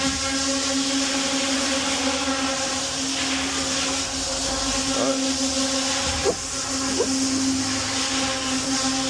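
Steady machine hum holding one pitch over a constant hiss, like a shop fan or motor running in the background, with two light knocks about six and seven seconds in.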